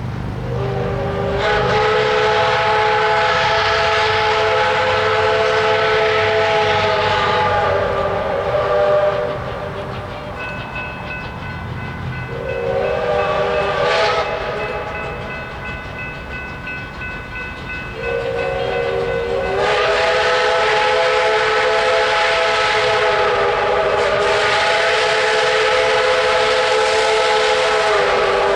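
Chime steam whistle of a 2-8-0 steam locomotive (DMIR 332) blowing three blasts: long, short, then a long one of about ten seconds. A low train rumble runs underneath.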